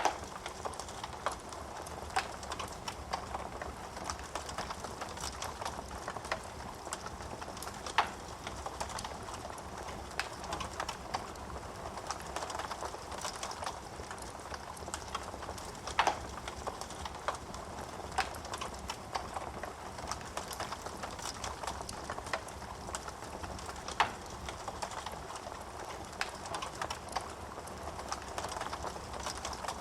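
Wood fire in a fireplace crackling: a steady stream of small snaps and clicks from the burning wood over a soft hiss of flames, with a few louder pops spread through it.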